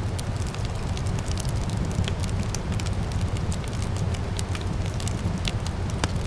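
Wood fire crackling in a fireplace, with many small irregular pops over a steady low rumble; one sharper pop just before the end.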